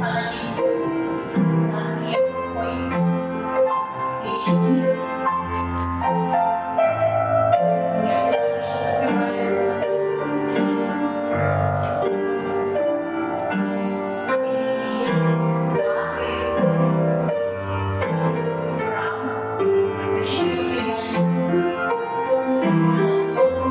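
Piano accompaniment for a Russian folk-dance barre exercise, played in a steady dance rhythm with a low bass note on the beats. Short sharp taps fall on some beats.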